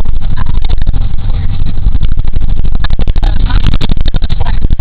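Loud low rumble with many clicks and crackles throughout, and faint voices a little past the middle.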